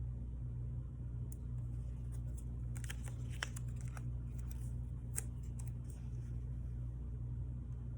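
Steady low electrical hum with light clicks and rustles of paper and craft tools being handled, a cluster of them about three seconds in and a few single ticks later.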